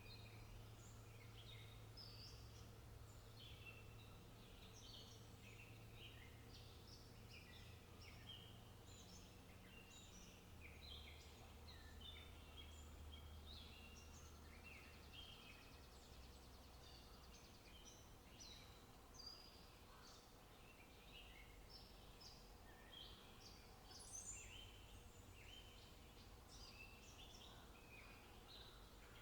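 Faint chorus of many wild birds chirping and calling, a steady stream of short high chirps overlapping one another, over a low rumble.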